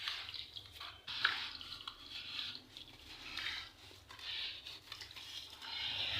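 Balls and shapes of wet sand crumbling with a soft, crunchy gritty hiss, in short bursts about once a second.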